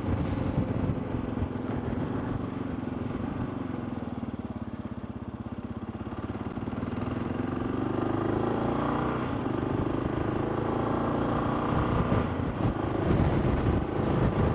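Motorcycle engine running under way, heard from the rider's cameras: the engine eases off and slows about four seconds in, then picks up and accelerates again from about seven seconds, with wind and road rush throughout.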